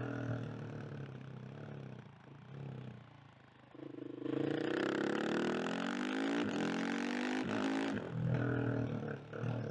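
KTM 690 SMC R single-cylinder engine. It is running on a light throttle and goes quieter for a couple of seconds, then the throttle opens about four seconds in and the revs climb. The pitch drops near the end at an upshift, and the engine pulls on.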